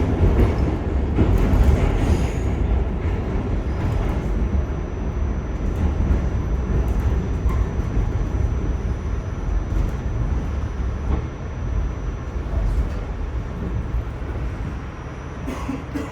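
R46 subway car running underground: a steady low rumble of wheels on rail, with a faint high whine through most of it, getting gradually quieter toward the end as the train eases off.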